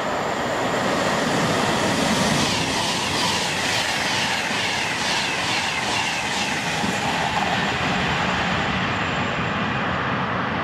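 A Virgin Pendolino express train passing through the station at speed. It rises to a loud rush of rolling noise within the first two seconds, with a fast, even clatter of wheels over rail joints through the middle, then a steadier rumble as the train goes by.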